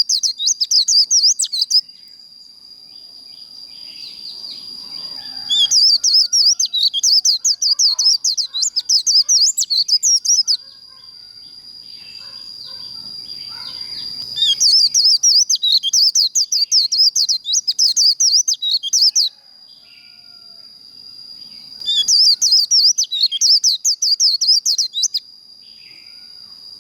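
White-eye singing its rapid chattering 'líu' song in bursts of about three to five seconds, four times, with a thin steady high note held between the bursts.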